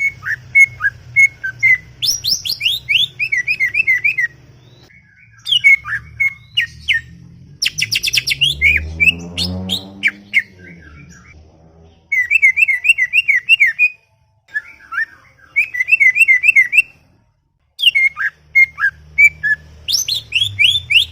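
Cucak ijo (green leafbird) singing a rapid, chattering song of sharp chirps and slurred trills, delivered in bursts broken by short pauses. A faint low hum runs underneath, and a low sound swells and fades about halfway through.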